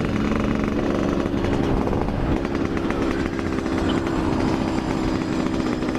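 Yamaha RX-King's two-stroke single-cylinder engine running at a steady, fairly even pitch while the bike is ridden, its exhaust note loud and raspy.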